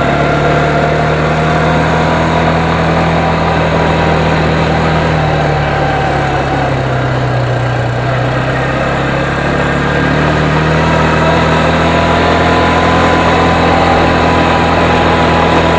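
A vehicle engine running steadily while driving. Its note sinks a little about halfway through and climbs again.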